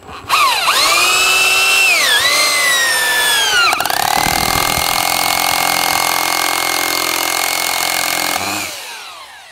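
Electric drill motor whining. Its pitch sags twice as it bogs under load, then it spins steady at speed for about four seconds before stopping.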